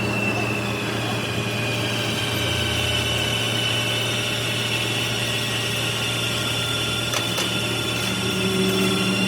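A machine running steadily with a low hum and a high-pitched whine that holds throughout, then sweeps upward briefly near the end.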